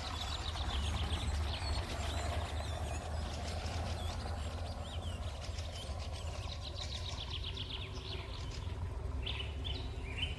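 Small birds chirping and trilling, with a quick run of repeated chirps about halfway through, over a steady low rumble.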